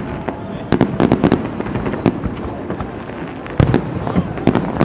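Aerial fireworks exploding: many sharp bangs in quick, uneven succession, several close together about a second in and again near the end.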